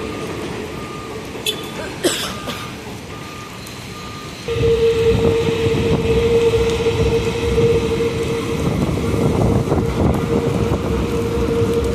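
Transit vehicle running with a steady hum, with short repeated beeps and a sharp knock in the first few seconds, then getting louder about four and a half seconds in as a stronger rumble and hum set in.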